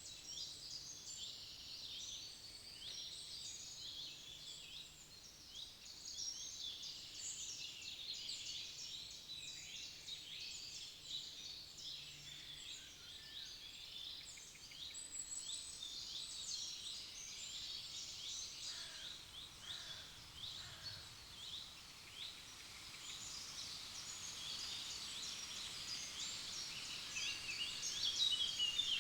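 A chorus of many songbirds singing and calling at once, with overlapping high chirps, trills and quick falling notes, a little louder near the end.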